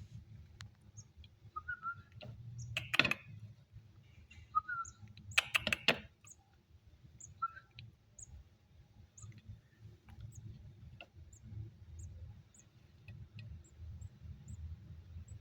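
Javan bush lark giving three short chirps, with two louder clattering bursts in the first half. Through the second half comes a run of faint, high ticks about twice a second, over a steady low hum.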